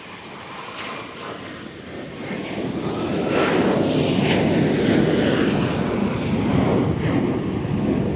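Aircraft engine noise, growing louder over the first three seconds and then staying loud and steady.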